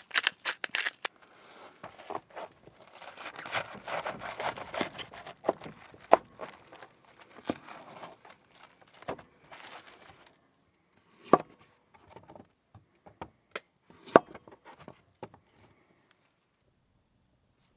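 Rustling and crinkling of food and packaging being handled while cooking, with a quick run of clicks at the start and a few sharp knocks later on.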